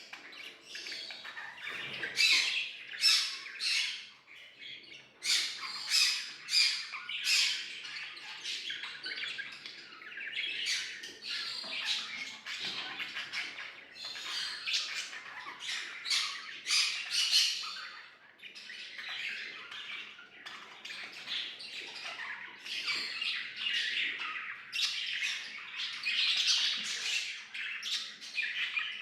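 Budgerigars chattering and warbling: a continuous run of rapid chirps and scratchy squawks, with louder flurries every second or two.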